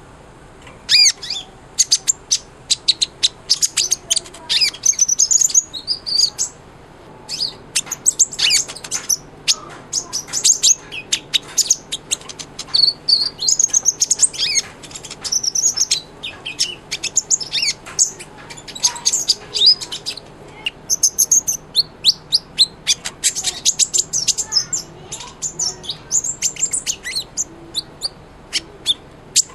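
Kolibri ninja sunbird singing energetically: a rapid, continuous run of high, thin chirps and twittering trills.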